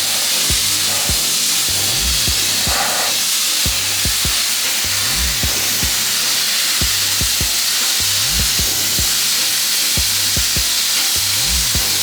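Steady loud hiss of an abrasive blaster working metal, under a hip-hop backing track with a deep bass beat that repeats about every three seconds.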